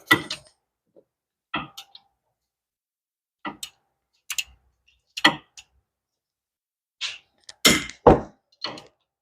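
Scattered metallic clicks and knocks from a ratchet and socket working the 17 mm hub-assembly mounting bolts loose, about one every second. A few louder knocks come close together near the end.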